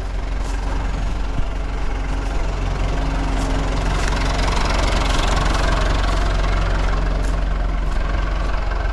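Backhoe's diesel engine running steadily, swelling louder for a couple of seconds near the middle as it works under load.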